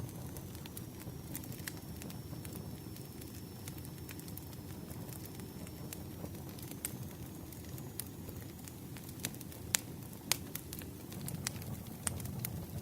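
Campfire crackling: a steady low rumble of burning wood with scattered sharp pops and snaps, two louder pops about ten seconds in.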